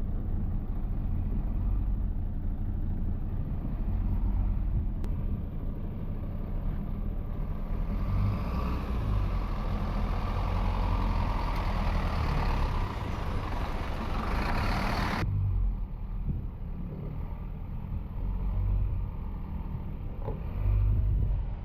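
A heavy truck's engine running with a low rumble. From about eight seconds in, a rushing hiss builds up alongside it, then cuts off abruptly about fifteen seconds in.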